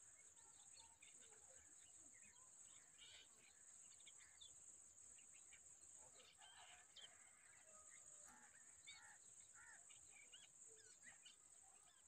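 Faint outdoor ambience: short bird chirps scattered throughout, over a steady high-pitched hum.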